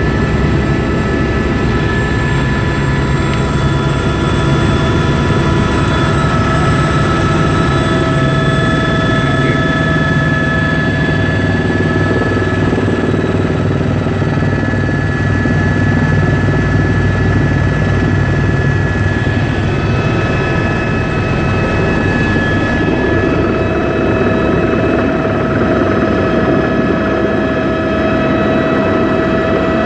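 Helicopter in flight: steady, loud engine and rotor drone with several constant high-pitched tones of the turbine whine above it.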